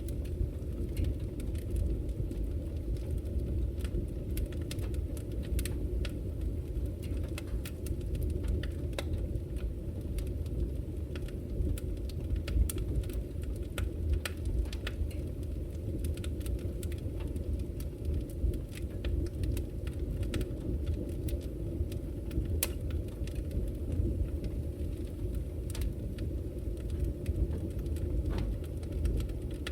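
Wood fire crackling in a fireplace: many small sharp pops over a steady low rumble.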